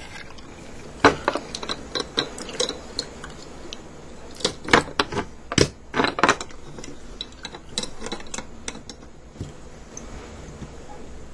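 Scattered light clicks and clacks of a scale model truck and trailer being handled, set down and fitted together, hard parts knocking against each other and the surface, busiest around the middle.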